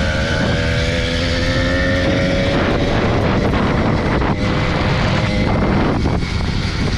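80cc two-stroke motorized bicycle engine running as the bike is ridden, a steady pitched buzz with wind rushing over the microphone. The engine note is clearest in the first half and sinks into the wind noise in the second half.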